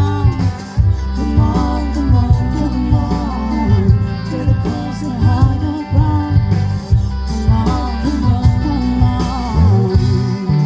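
Live band performing a song: a singer's voice over drums, bass and guitar, with a steady beat.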